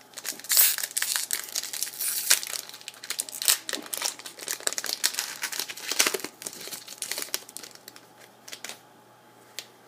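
Plastic-foil trading card pack wrapper being torn open and crinkled in the hands: a dense run of sharp crackles that thins to a few scattered crinkles near the end.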